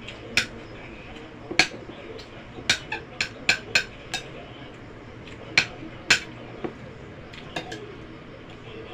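Metal cutlery clinking against a plate while eating: about a dozen sharp, irregular clinks, loudest in the first half and again around six seconds in.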